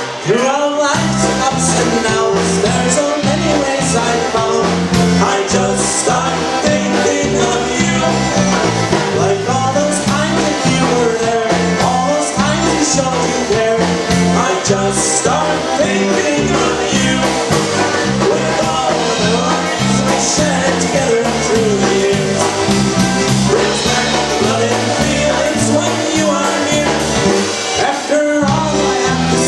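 Polka band playing live, with a sung vocal over an even, alternating two-note oom-pah bass.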